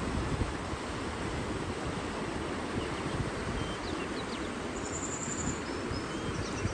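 Outdoor nature ambience: a steady rushing of wind and water with low buffeting on the microphone. A few small birds chirp in the second half, with one short high trill about five seconds in.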